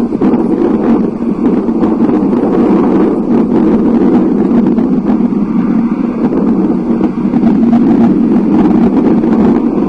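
Thunderstorm noise: a loud, steady rush, with wind buffeting the microphone.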